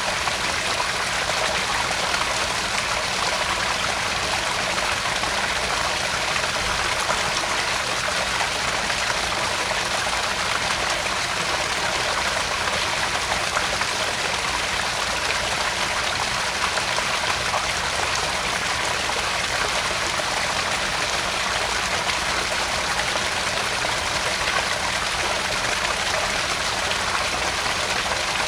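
Small garden pond waterfall, water spilling and splashing steadily into the pond.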